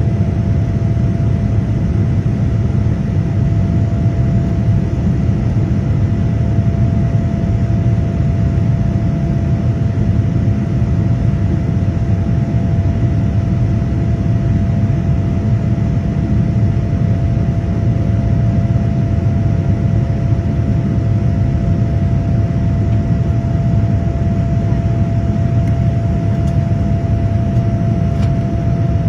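Steady cabin noise of a Boeing 787-10 airliner under jet power: a deep rush of engines and airflow with a thin, steady hum held above it, unchanging throughout.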